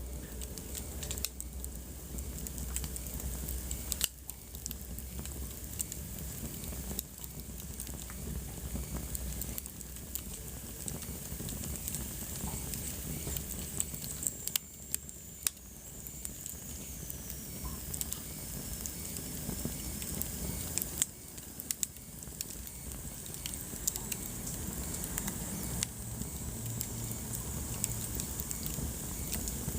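Wood fire burning in a fireplace: a steady hiss with frequent sharp crackles and pops. A thin whistle falls in pitch about halfway through.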